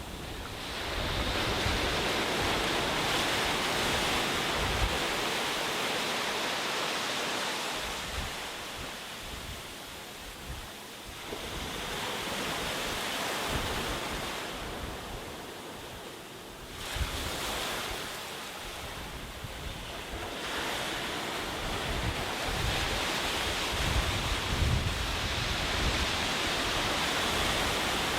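Sea waves breaking and washing up on a beach, the surf swelling and easing every few seconds, with wind buffeting the microphone in low rumbles.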